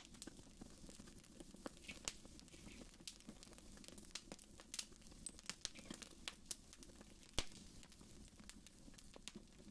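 Wood fire in a fireplace crackling: irregular sharp pops and snaps, with one louder pop about seven seconds in, over a faint low rumble.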